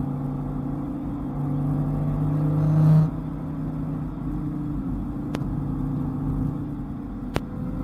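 Dodge Viper V10 engine accelerating, rising in pitch and loudness for about a second and a half, then dropping abruptly about three seconds in and settling into steady running. Two short sharp clicks near the end.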